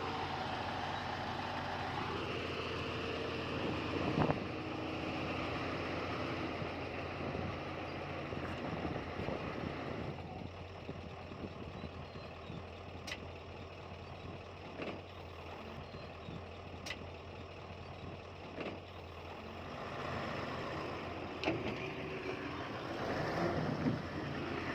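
Diesel engines of heavy earthmoving machinery running steadily, with a few sharp clanks and knocks. The engine noise eases off about ten seconds in and picks up again near the end.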